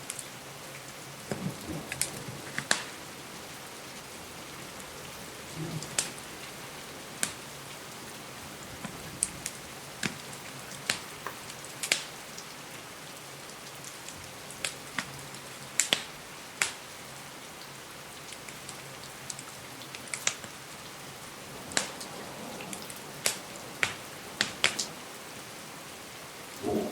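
Steady rain on a window pane with a wood fire crackling: sharp, irregular pops and snaps, a few every couple of seconds, over the even hiss of the rain.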